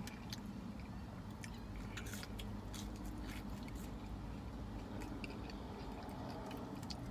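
Close-miked chewing and biting of french fries: soft, scattered wet mouth clicks and smacks over a steady low hum.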